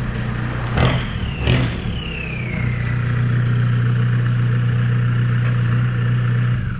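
A motor vehicle engine running steadily, with two sharp knocks about a second in and a high whine that falls in pitch and then holds.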